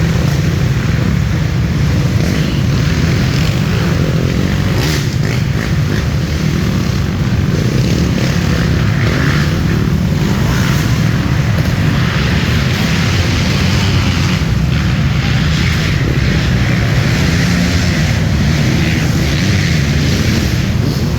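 Dirt bike engines racing on the track, blending into a loud, steady drone.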